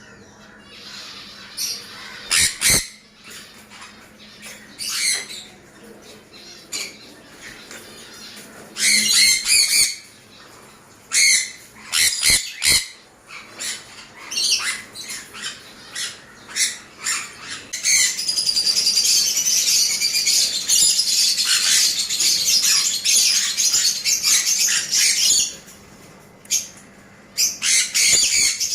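Sun conures squawking in harsh, high screeches, first in short bursts and then in a continuous stretch of screeching lasting several seconds from about two-thirds of the way in. A few short knocks come between the calls.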